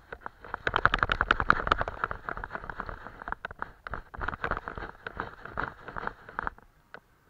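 Close-up brush strokes on paper: a quick run of short scratchy dabs and scrapes, busiest early on and stopping shortly before the end.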